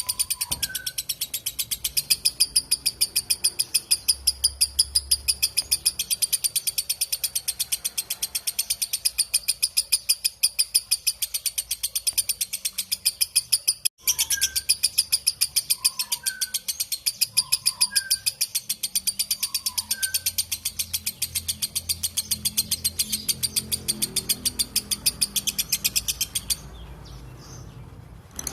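Lovebird chattering in one long, unbroken run of rapid, shrill, evenly repeated chirps (the 'ngekek panjang' long chatter), with a momentary dropout halfway through; the chatter stops about two seconds before the end. A few softer, lower chirps from another bird sound now and then.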